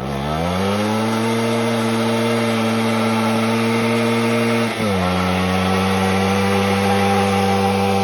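The single-cylinder two-stroke engine of a Minsk motorcycle is held at high revs during a burnout in second gear. The revs drop sharply at the start and climb back within about a second, then hold steady, with a brief dip about five seconds in.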